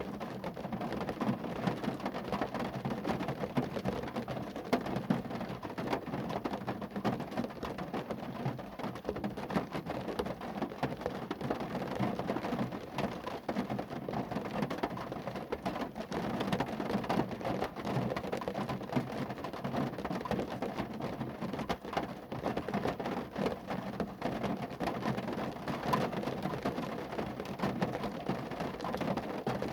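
Rain falling on a car, a steady, dense patter of many small drop hits.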